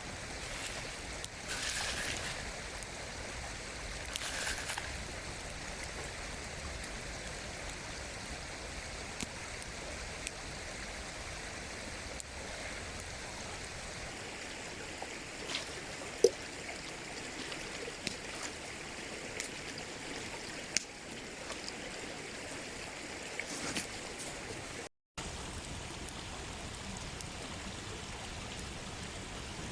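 Mountain stream flowing steadily, with scattered faint ticks and clicks over it; the sound cuts out for a moment near the end.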